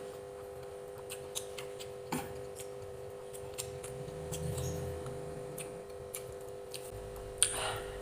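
Someone eating: small crisp clicks and smacks at an irregular pace, with a louder click near the end, over a steady electrical hum.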